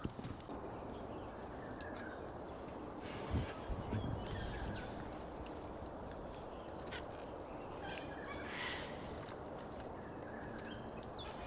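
Outdoor bushland ambience: a steady background hiss with scattered short bird calls, and a single louder knock about three and a half seconds in.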